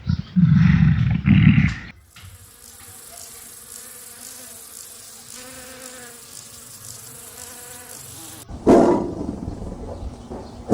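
Gorilla vocalising with loud, deep, rough calls in the first two seconds. A steady insect-like buzz with faint held tones follows for about six seconds. Another loud, deep call comes near the end.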